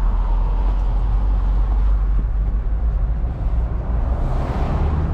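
Mazda Miata's four-cylinder engine running with a steady low rumble, top down; a brief rushing noise swells up near the end.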